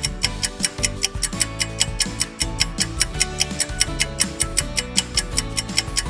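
Quick, even clock-style ticking of a quiz countdown-timer sound effect, over light background music with a steady low bass line.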